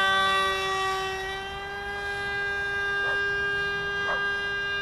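Motor and propeller of a 60-inch RC paper airplane running at high throttle: a steady, even-pitched whine that slowly gets quieter as the plane flies away.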